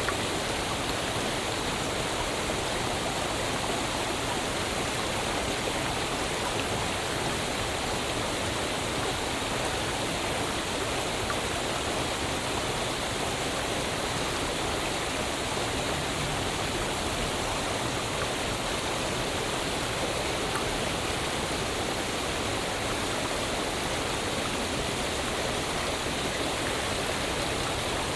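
Waterfall: water falling and splashing as a steady, even rush without breaks.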